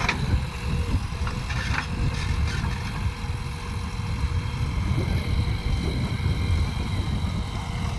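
Diesel engine of heavy earthmoving machinery running steadily, a low rumble with a faint thin whine over it in the first few seconds.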